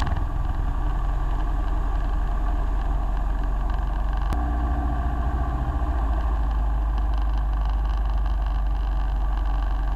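Single-engine light aircraft's piston engine and propeller droning steadily, heard from inside the cabin, with one brief click about four seconds in.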